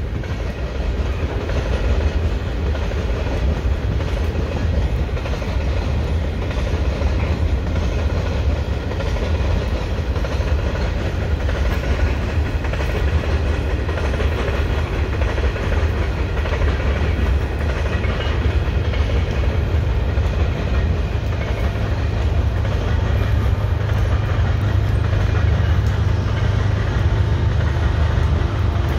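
A train passing: a steady low rumble of wheels on rails that carries on without a break and grows a little stronger in the last part.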